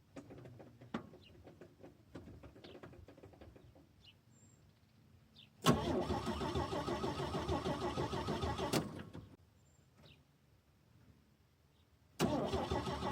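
Starter cranking the 1965 Chevy C50's 292 cubic inch inline-six in an attempt to start it on its freshly reconnected fuel line: one burst of about three and a half seconds starting a little past halfway, then a second crank starting near the end.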